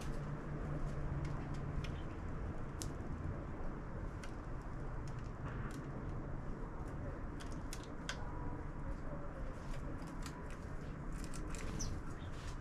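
Sparrows at a bird feeder: scattered short, high ticks and chirps, many a second apart, over a steady low rumble.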